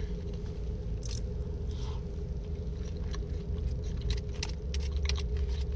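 Close-up eating sounds: chewing with small irregular mouth clicks and smacks, over a steady low hum.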